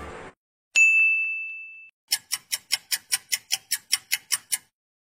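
A single bright ding that rings and fades over about a second, then a rapid run of about fourteen metallic strikes, roughly six a second for two and a half seconds: an alarm-bell sound effect.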